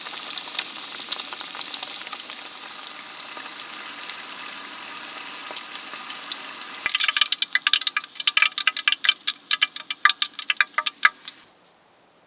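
Food frying in a pan, a steady crackling sizzle. About seven seconds in it gives way to a quick run of bright clinking strokes from a utensil, which cuts off abruptly near the end.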